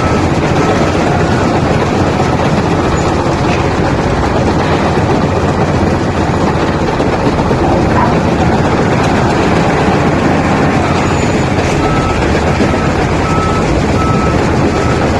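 Heavy machinery running steadily: the Lovol FL936H wheel loader's diesel engine working as it loads stone. A reversing alarm beeps repeatedly at the start and again from about twelve seconds in.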